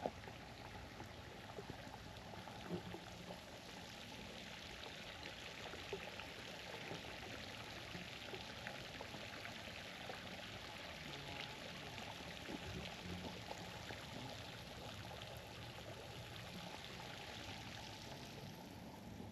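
Running water splashing steadily, growing louder a few seconds in and fading near the end.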